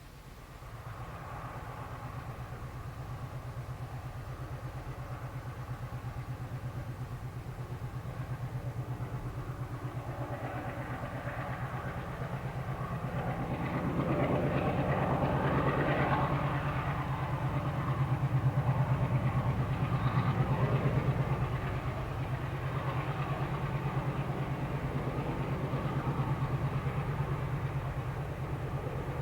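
MLW diesel-electric freight locomotive with its ALCO 251 diesel engine running under power, a steady low, rapidly pulsing throb that grows louder over the first half and peaks about halfway through before easing slightly.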